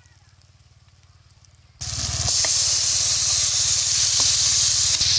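Spice paste with chilli powder and turmeric sizzling in hot oil in a kadai. It cuts in suddenly about two seconds in after a near-quiet gap, then keeps up a steady, even hiss with a few light clicks.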